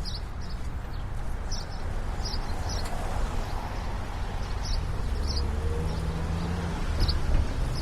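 Steady traffic rumble from the road, with a passing vehicle's engine hum late on. Short, high chirps of small birds come at irregular intervals over it.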